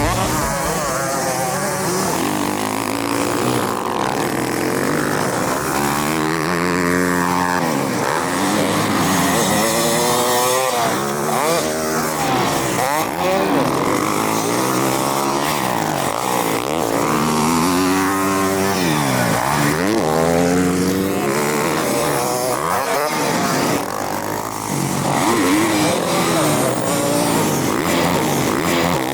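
Several motocross dirt bikes running on a track, their engines revving up and dropping back over and over as riders accelerate, shift and pass by.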